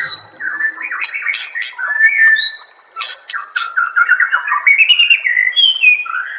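White-rumped shama (murai batu) singing a rapid, varied song of whistled notes and slurs mixed with sharp clicking notes, with a short pause near the middle and faster, denser phrases toward the end.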